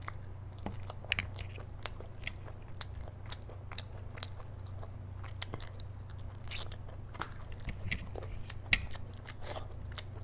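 Close-miked chewing of mouthfuls of rice and curry eaten by hand, with frequent irregular wet clicks and smacks of the lips and mouth over a steady low hum.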